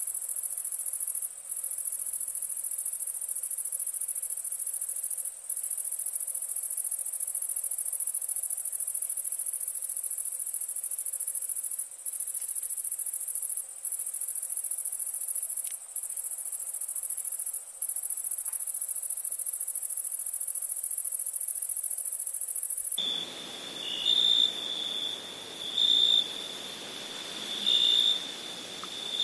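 Night insects trilling: a continuous, very high-pitched trill with a few brief breaks. About 23 seconds in, it cuts abruptly to a lower-pitched chirping that comes in short pulses every second or two.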